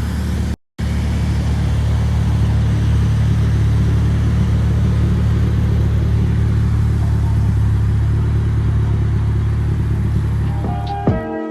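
2020 Jetta GLI's turbocharged 2.0-litre four-cylinder with an APR intake, running loud and steady at an even pitch, with a brief cut to silence just under a second in.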